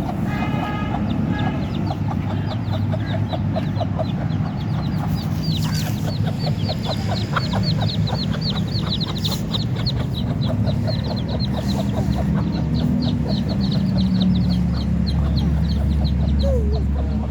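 Domestic chicks peeping, many short high chirps in quick succession, while a mother hen clucks lower down. A low steady rumble runs underneath and grows louder near the end.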